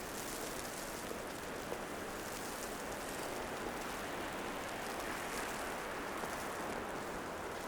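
Steady wash of outdoor city ambience in falling wet snow, a rain-like hiss with a few faint ticks.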